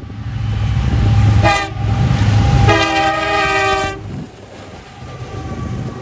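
Norfolk Southern EMD SD70ACe diesel locomotive passing close by, its engine rumbling heavily, sounding its chime horn in a short blast and then a longer one. After the horn stops, the rumble drops to the steadier rolling of the freight cars behind.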